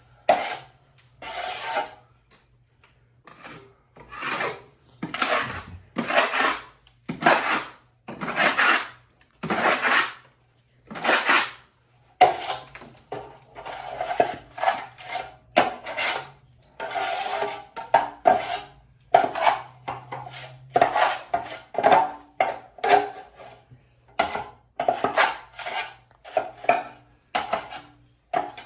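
Steel trowel scraping fast-setting hot mud (5-minute setting-type joint compound) across a plaster wall in repeated strokes about once a second. The first dozen seconds are long sweeps; after that the scrapes get shorter and quicker, with light metal clicks.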